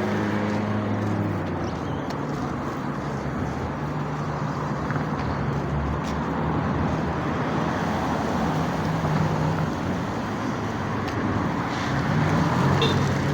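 Motor vehicle running steadily: a low engine hum over a constant rush of road noise.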